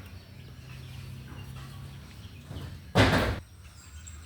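A single sudden loud bang or thump about three seconds in, lasting under half a second, over faint background noise and a low hum.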